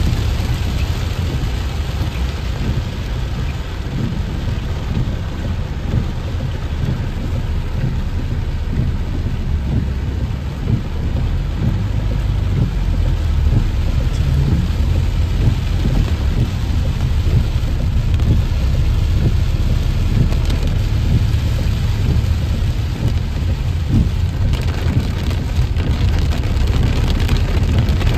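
Heavy rain drumming on a car's roof and windscreen, heard from inside the cabin, as a steady hiss over a deep, constant rumble.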